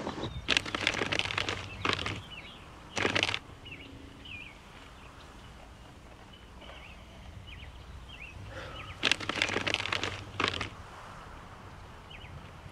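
Small birds chirping in short calls throughout, broken by three loud bursts of noise: about half a second in, at three seconds, and around nine to ten seconds in.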